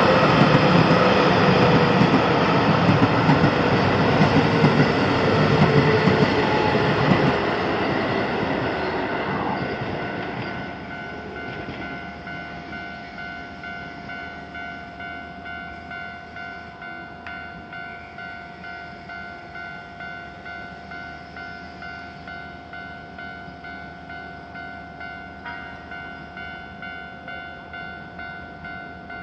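Keio Line electric train passing over a level crossing, its wheels clacking and a whine falling in pitch. It is loud for the first seven seconds or so, then fades away by about ten seconds in. The crossing's electronic warning bell rings on in an even, rapid dinging throughout.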